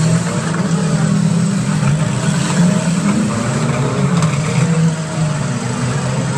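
Several demolition derby cars' engines running and revving together, a steady, wavering engine drone.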